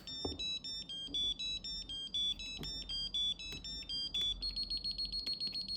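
Woodpecker Woodpex V apex locator beeping with its tester connected: a quick run of short electronic beeps jumping between pitches, then, a little over four seconds in, fast, even beeping at a single high pitch, the locator's audio signal for the measured file position.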